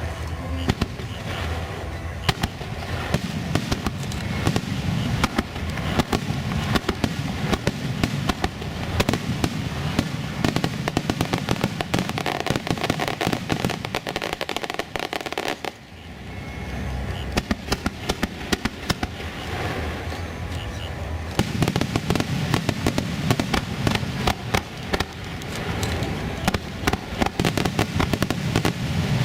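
Aerial fireworks display: a dense run of shell bursts and crackling, with deep booms underneath. There is a brief lull about halfway through before the bursts pick up again.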